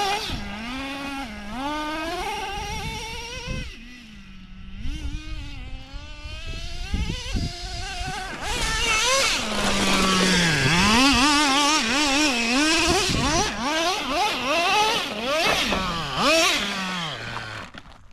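Radio-controlled cars' small nitro engines running and revving, their pitch swinging rapidly up and down as the throttle is blipped. It dips quieter about four seconds in, and from about eight seconds on two or more engines overlap.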